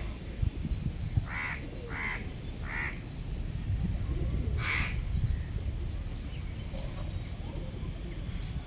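A crow cawing: three short caws in quick succession about a second and a half in, then one more near the middle, over a steady low rumble.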